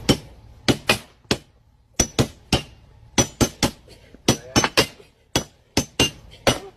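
A series of about twenty sharp taps or knocks, unevenly spaced, each with a brief ring.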